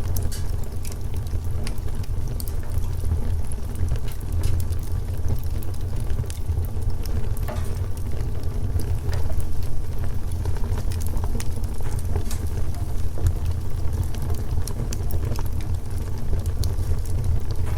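Wood fire crackling: irregular sharp snaps and pops scattered over a steady low rumble.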